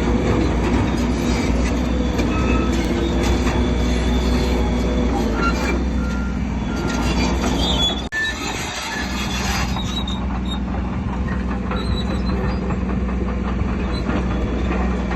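Crawler bulldozer working: its diesel engine running steadily while the steel tracks squeal and clank. The sound breaks off for an instant about eight seconds in and carries on.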